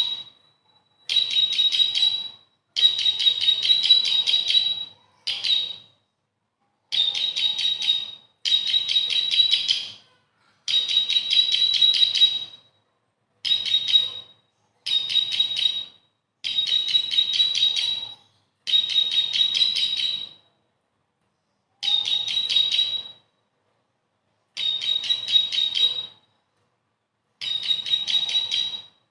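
Bar-winged prinia (ciblek) singing: about a dozen short bouts of fast, repeated high chirps, each one to two seconds long, separated by brief silences.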